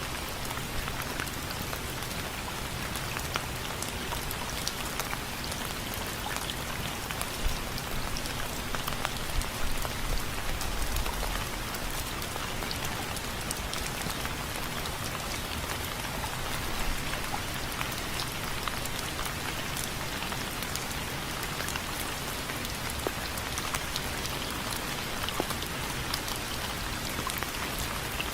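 Steady rain on window frames, with many separate drops ticking against them over a constant hiss of rainfall.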